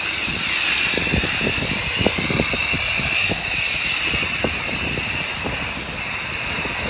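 High-pressure spray wand at a self-service car wash spraying the car: a loud, steady hiss, with irregular low thumps mixed in.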